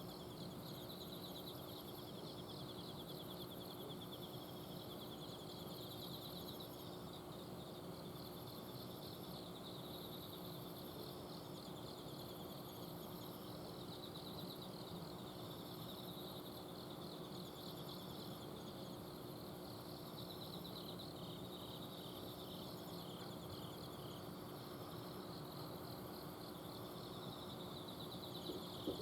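Several autumn insects (crickets) singing together: a continuous pulsing trill with a very high-pitched chirping phrase repeating about every two seconds. Under them runs the steady low hum of an air conditioner's outdoor unit.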